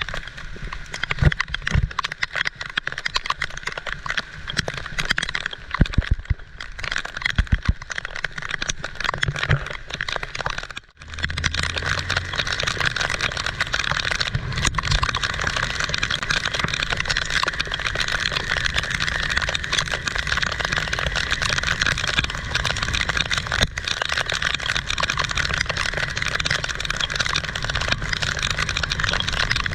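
Heavy rain pouring down, a dense steady hiss. Low thumps break in during the first ten seconds, there is a short dropout about eleven seconds in, and after it the rain is even and steady.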